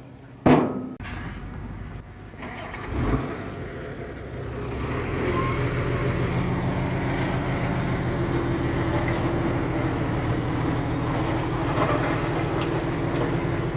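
Heavy diesel earthmoving machine running steadily, after a sharp knock about half a second in.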